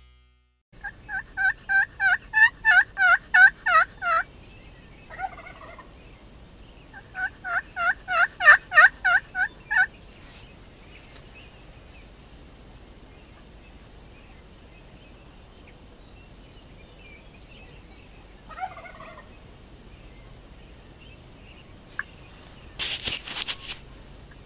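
Wild turkeys calling: two runs of about a dozen quick, evenly spaced pitched notes that grow louder, a couple of short calls, and a brief harsh rattling burst near the end.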